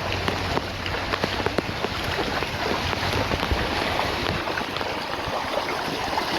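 Heavy rain falling: a steady hiss with many sharp taps of drops striking close by.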